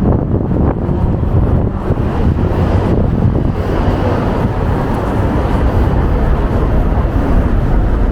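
Wind buffeting the microphone in a steady, loud low rumble.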